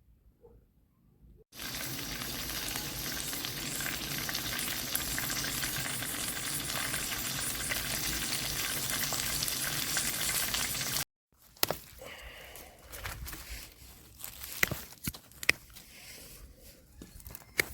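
Food sizzling in a frying pan, a steady crackling hiss that starts about a second and a half in and cuts off abruptly after about nine seconds; scattered sharp clicks and knocks follow.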